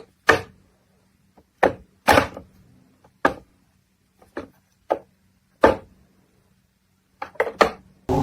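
A series of about a dozen sharp knocks or thumps at irregular intervals, some in quick pairs, with near quiet between them.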